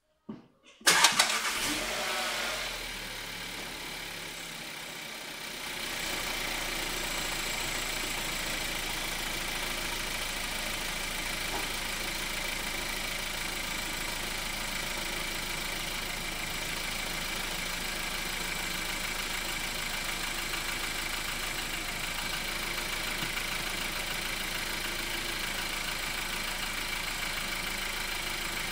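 Skoda Octavia 1.4 TSI four-cylinder petrol engine starting just under a second in, after its coolant pump has been replaced, then settling into a steady idle.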